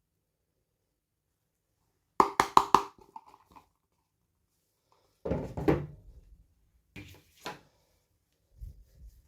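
Hands handling plastic toy packaging and pieces: a quick run of about five sharp clicks, then a rustle with dull knocks, two more clicks and a soft thud near the end.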